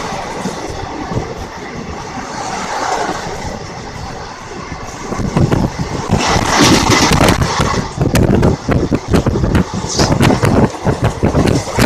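Running noise of a train heard from inside a coach by an open door or window as it pulls out and gathers speed: wheel-on-rail rumble with frequent short knocks and rushing air, growing louder about five seconds in.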